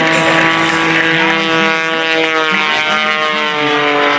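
Pitts S2S aerobatic biplane's piston engine and propeller droning steadily, with a slowly falling pitch.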